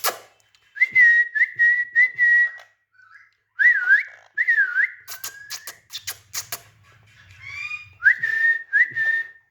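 Pet green parrot whistling: a string of short, clear whistled notes at much the same pitch, some swooping down and back up, with a quick run of clicks in the middle.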